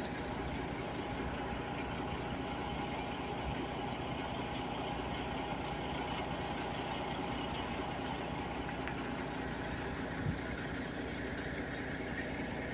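Truck engine running steadily, an even hum with no revving or gear changes.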